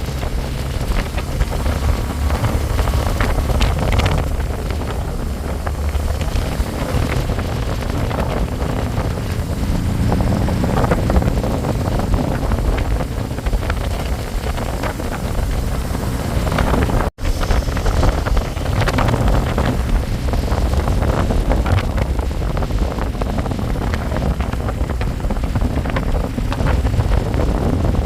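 Wind buffeting the microphone on a moving motorbike, over the steady low rumble of the engine and road. The sound cuts out for an instant about seventeen seconds in.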